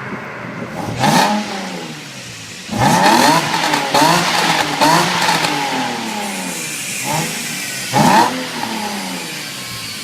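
Lexus LFA's V10 engine and exhaust revving hard in quick blips: the pitch shoots up and falls away about a second in, again several times in rapid succession from about three to five seconds, and once more near the end.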